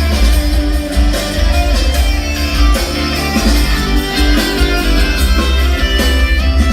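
A guitar-led song played through a car audio system's door speakers and fiberglass subwoofer box, with a heavy bass line.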